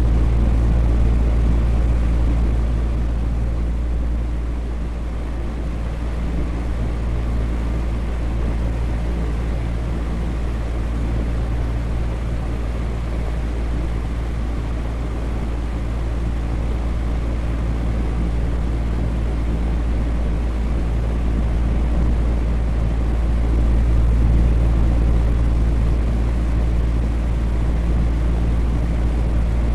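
Electric fan running steadily, a deep whooshing drone with a low motor hum that slowly swells and eases.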